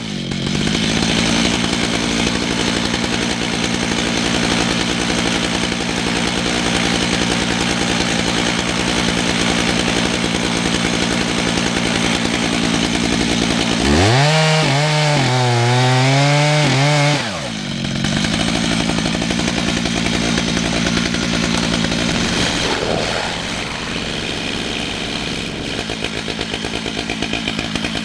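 Two-stroke chainsaw on a chainsaw mill running steadily under load as it rips lengthwise through a red oak log. About halfway through, its pitch climbs and wavers for a few seconds, then settles back to the steady cutting note.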